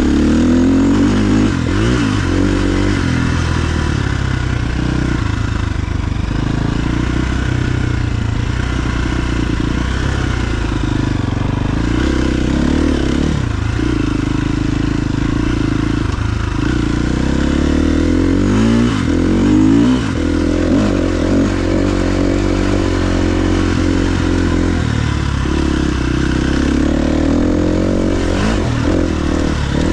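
KTM 350 XC-F dirt bike's single-cylinder four-stroke engine under way, its revs rising and falling again and again as the throttle is worked and gears change.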